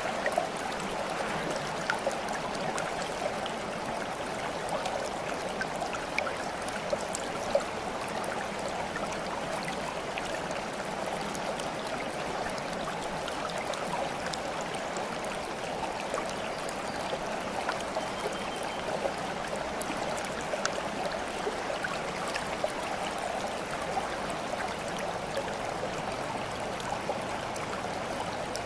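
Running water flowing steadily, a stream-like babble with scattered small drips and splashes.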